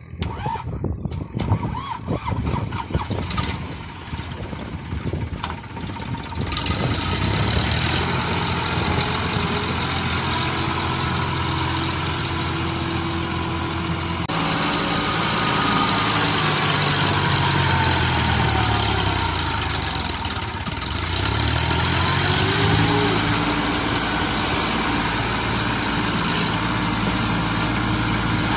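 Clattering knocks at first, then a steady engine sound like a tractor running, its pitch dipping and climbing again around the middle as if revving.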